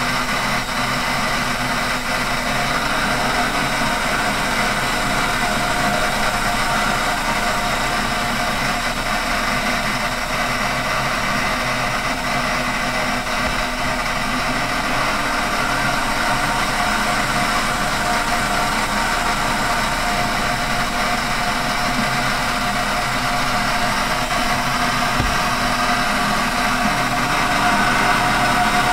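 1960s Unimat lathe retrofitted to CNC, its motor running steadily with a steady whine as it turns a piece of wood to a taper at a slow feed and light cut.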